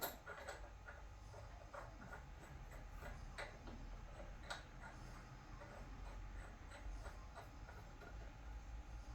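Scattered light clicks and taps of small parts and tools being handled during a workshop repair, irregular and a few seconds apart, over a faint steady low hum.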